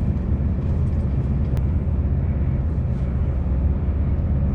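Scania V8 truck engine running steadily at low revs, with a single sharp click about one and a half seconds in.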